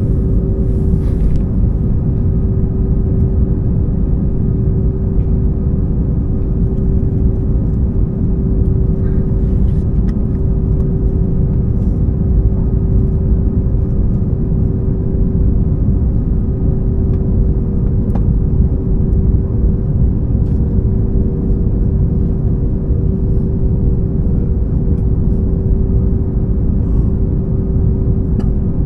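Steady cabin noise of a COMAC C919 airliner coming in to land: a loud low rush of air and engine noise with a steady hum over it.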